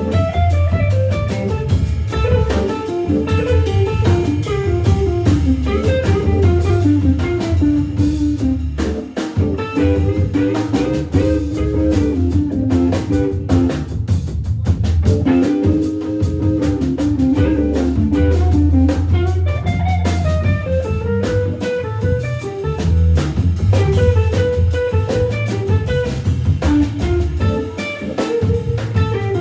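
Jazz organ trio playing live: Hammond B3 organ through a Leslie speaker, electric guitar and drum kit. A busy single-note melody line runs over a steady organ bass and a driving drum groove.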